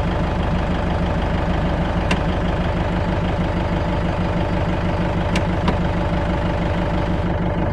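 Safari jeep's engine running steadily, heard from on board, with three brief sharp clicks about two seconds in and twice more near the middle.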